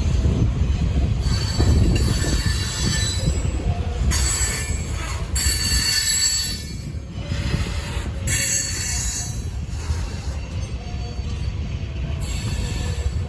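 Freight train cars rolling past with a continuous low rumble, their steel wheels squealing against the rails in high-pitched, multi-toned spells that come and go several times, about a second or two each.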